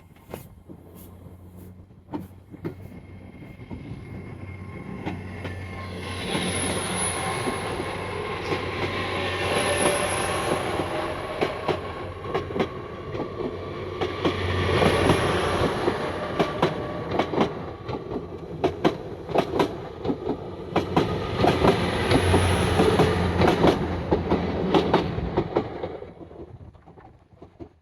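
A train passing on the rails: the wheels clatter over the rail joints in many sharp clicks, with a thin high wheel squeal that swells several times. It builds up a few seconds in, stays loud through the middle, and dies away shortly before the end.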